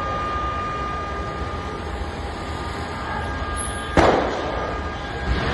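A steady rushing outdoor noise with a faint steady hum, broken about four seconds in by a sudden loud bang that dies away over about a second; the level rises again near the end.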